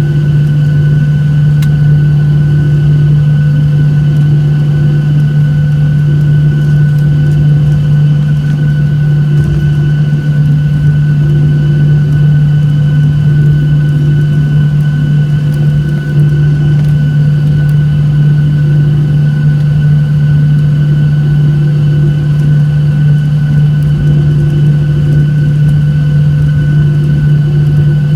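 Steady drone inside a Boeing 737-800 airliner's cabin: its CFM56 engines make a loud low hum, with a thin, steady whine above it that neither rises nor falls.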